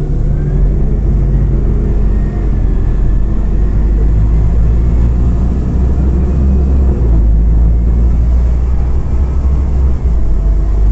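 Scania Omnicity CNG city bus in motion, heard from inside the cabin: a steady low rumble of its gas engine and road noise, the engine note gliding up as it pulls away near the start.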